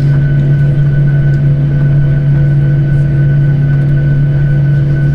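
Jet airliner's engines and cabin air system heard from inside the cabin: a loud, steady drone with a deep hum and several constant whining tones above it.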